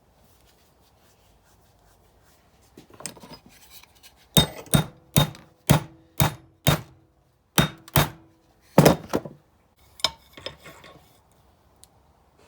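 About ten sharp hammer blows on steel in quick succession, with a short metallic ring, as a screw extractor (easy-out) is tapped into a drilled-out, stripped brake caliper bolt. A few lighter metal clicks follow.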